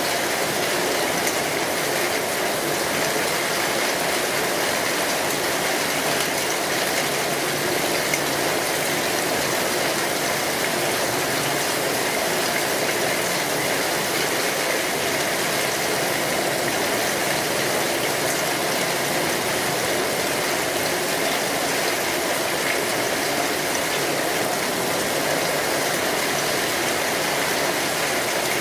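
Steady rain falling on an umbrella, an even, unbroken hiss of drops with no let-up.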